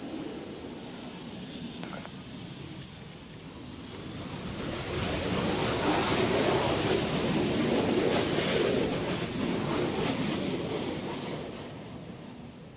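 Aircraft engine noise at an airfield: a high whine in the first few seconds, then a swelling rush of engine noise that peaks midway and fades again as the aircraft goes past.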